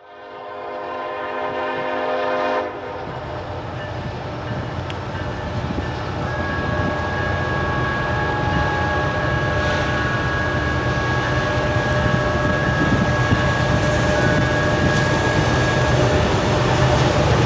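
Diesel freight locomotive's air horn sounding a chord for about two and a half seconds and cutting off, then the low rumble of the locomotives growing louder as the train approaches, with fainter steady tones held from about six seconds in to sixteen.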